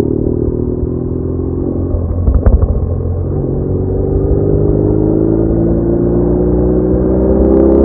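BMW R1200R flat-twin motorcycle engine under way, with low wind rumble. A brief knock comes about two and a half seconds in, then the engine note rises steadily as the bike accelerates.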